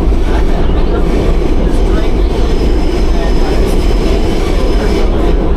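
New York City subway train running, a loud steady rumble and rattle of wheels on track. A faint high whine rises in over the last part.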